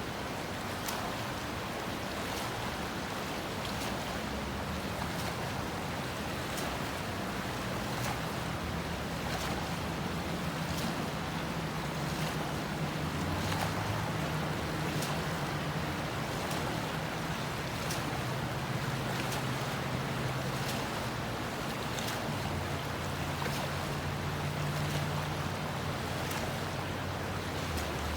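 Fast-running river water rushing steadily. Under it, a low hum shifts in pitch and grows stronger from about eight seconds in.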